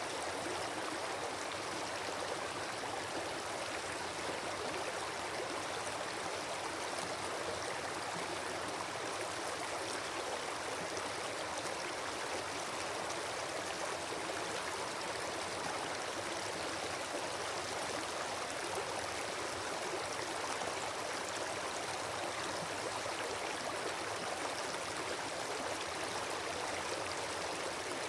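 Steady, even rushing noise like running water, with no distinct crackles or pops.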